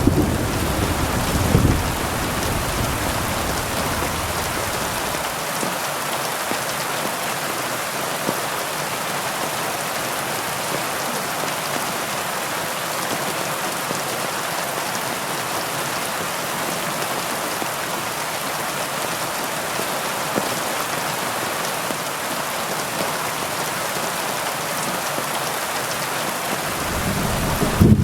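Heavy rain falling steadily in an even hiss. A low rumble of thunder dies away over the first few seconds, and another begins to build near the end.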